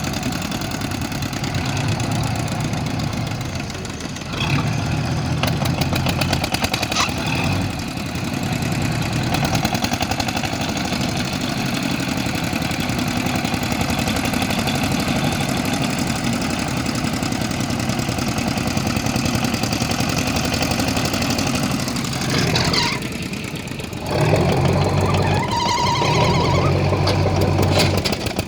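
Tugboat's engine running steadily under load, growing louder for a few seconds about four seconds in and again near the end.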